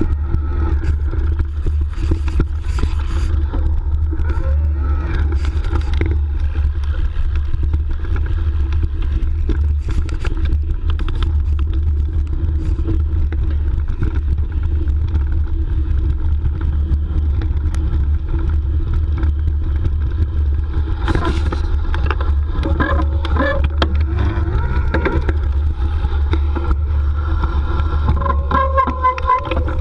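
Steady wind and rolling rumble on the microphone of a camera riding along on an electric mountain bike, with scattered rattles and scrapes from the bike over rough ground.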